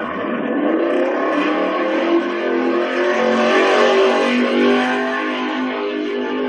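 1967 Chevrolet Camaro engine revving up over the first second or so and then held at high revs, with the rear tyres spinning and screeching through a donut.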